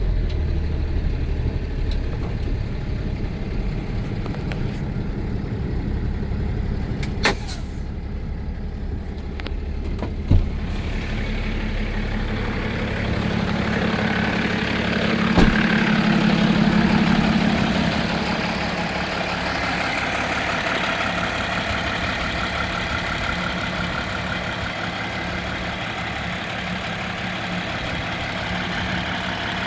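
Cummins 6.7-litre inline-six diesel of a bucket truck running steadily, with a few sharp clicks and a knock; the engine sound grows louder for a few seconds around the middle, then settles back.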